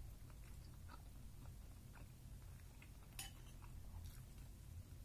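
Faint chewing, with small scattered clicks of a spoon and fork against a plate, the sharpest one about three seconds in, over a low steady room hum.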